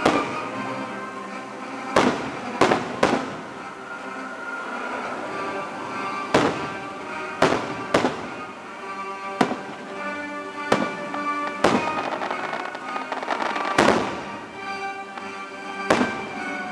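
Aerial fireworks shells bursting, about a dozen sharp bangs at uneven intervals, some in quick pairs and triples, over the show's music soundtrack playing throughout.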